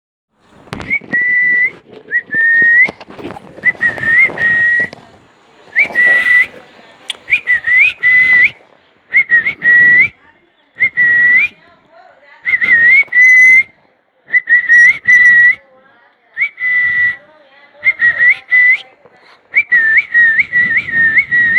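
Whistling: about a dozen short whistled phrases, each sliding up to one high note and holding it briefly, with pauses between.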